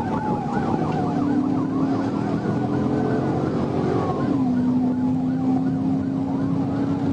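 Police car sirens during a pursuit: a rapid yelp for the first few seconds, then a slower rising and falling wail, over a steady lower drone and road noise.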